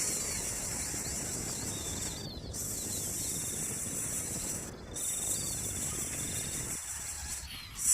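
Steady high-pitched insect chorus, the drone cutting out briefly about every two and a half seconds. Short high chirps and thin trills sound over it, on a low rumbling background.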